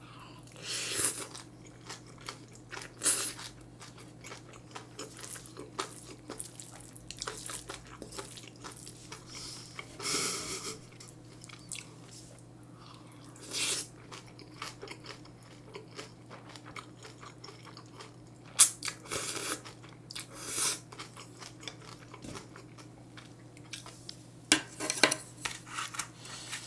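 Chewing a big mouthful of vegetable bibimbap close to the microphone, with crunching of the crisp greens in irregular bursts.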